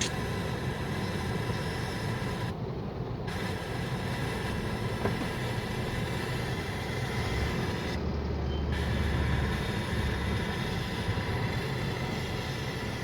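Steady engine and road noise of a moving motor vehicle, a continuous low rumble with no distinct events.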